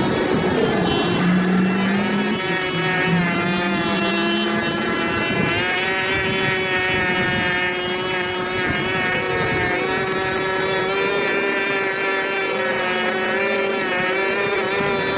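Small engine running steadily at a constant speed, with a steady pitched whine. A second, lower tone wavers for the first few seconds.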